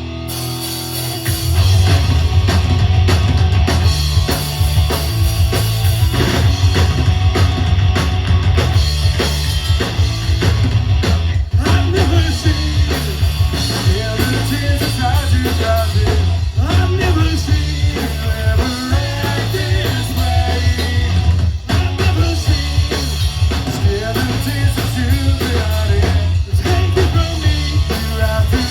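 Live rock music with a heavy drum kit and bass, loud throughout, coming in full about a second and a half in.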